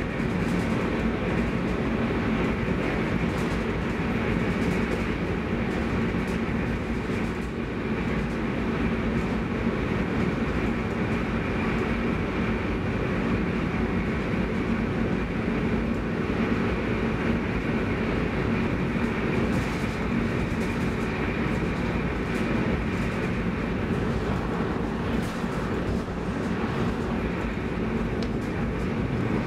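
Cabin running noise of an X10 electric commuter train at speed. Wheels rumble on the rails over a steady low hum, unchanging through the whole stretch.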